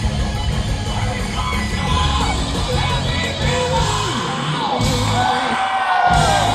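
Live rock band playing loud, with a singer yelling and singing long, bending high notes over it. The bass and drums briefly drop out twice near the end while the voice carries on.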